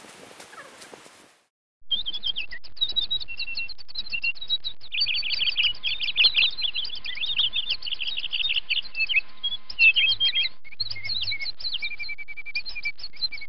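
Dense birdsong: many quick high chirps and short whistles overlapping, starting suddenly about two seconds in after a brief silence.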